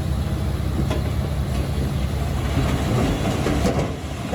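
Diesel engine of a Komatsu D21P crawler bulldozer running steadily under a low rumble, with its steel tracks and running gear clanking and rattling. A sharp clank comes about a second in, and the clatter grows busier through the middle and latter part.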